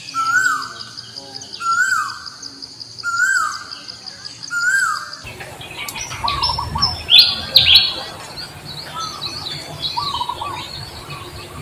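Birds calling: a repeated call sounds four times, about every second and a half, over a steady high insect whine. About five seconds in this cuts off abruptly and gives way to a busier mix of varied bird chirps and twitters over a low rumble.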